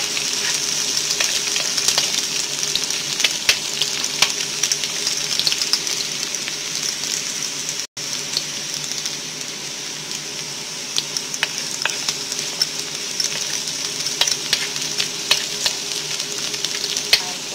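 Sliced onion and garlic sizzling steadily in hot oil in a frying pan, with occasional sharp clicks. The sound drops out for an instant about eight seconds in.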